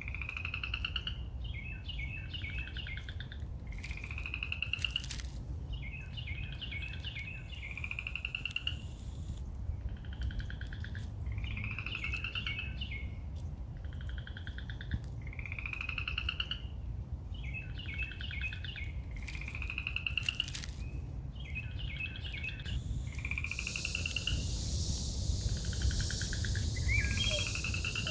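Songbird singing, repeating a short phrase of rising slurred whistles and quick chirps about every four seconds over a steady low rumble. A steady high hiss joins near the end.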